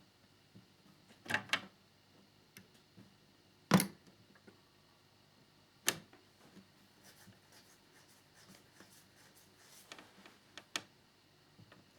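Scattered small clicks and knocks of plastic model-kit parts and tiny screws being handled and fitted, with the sharpest tap about four seconds in.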